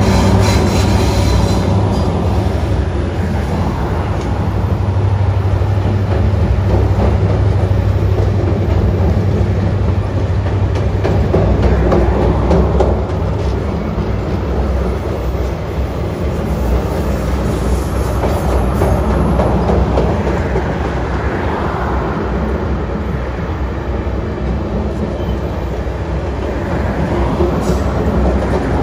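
Passenger train passing over a steel girder bridge: the diesel locomotive's engine is loudest in the first few seconds, then a string of passenger cars rolls across, steel wheels on rail.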